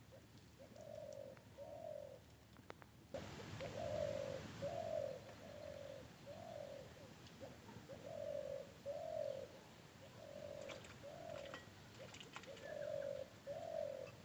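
A bird calling: a repeated series of short, low, hollow notes, mostly in pairs, with a few faint clicks and background hiss that gets louder about three seconds in.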